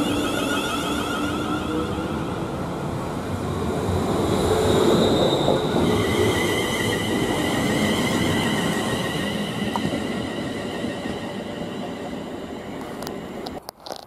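London Northwestern Railway Class 350 electric multiple unit running past, with wheel-on-rail noise and a high electric traction whine. The sound is loudest about five seconds in and then fades as the train moves away, before cutting off abruptly near the end.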